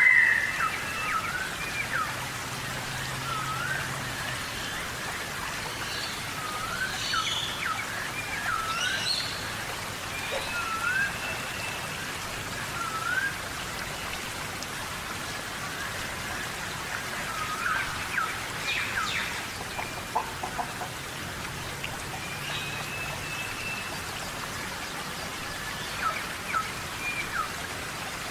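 Steady tropical rain falling, with birds calling through it in many short, quick, swooping chirps and a few held whistled notes; the loudest call comes right at the start.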